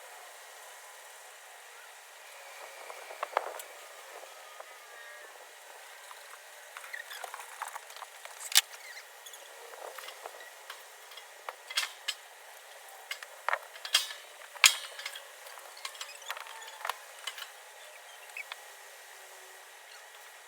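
Wood fire crackling in a fire pit: irregular sharp pops and snaps, more frequent in the second half, over a faint hiss.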